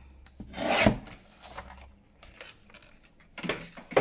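Paper trimmer cutting a sliver off a sheet of paper: a short scraping cut that builds to a thump just before a second in, then quieter paper rustles and a sharper knock near the end.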